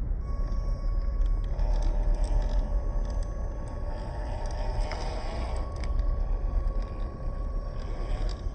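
Small electric motor and gearbox of a 1/16-scale RC crawler truck whining steadily as it drives, with scattered clicks and scrapes from tyres on rock over a low rumble.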